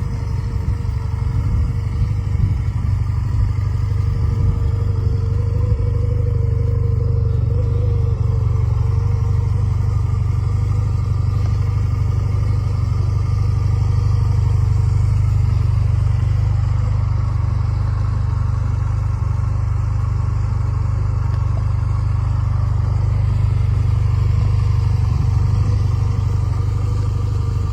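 Small motorcycle engine running steadily with an even low-pitched drone, most likely the 1997 Honda Rebel's 250 cc air-cooled parallel twin.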